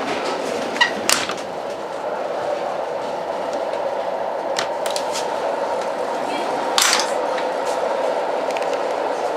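Old train running: a steady rumble of wheels on the track, with sharp clicks and rattles from the carriage scattered through it, the loudest about seven seconds in.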